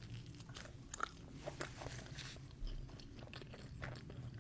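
A person biting into and chewing a slice of pizza, with the crust crunching in a string of short, crisp crackles.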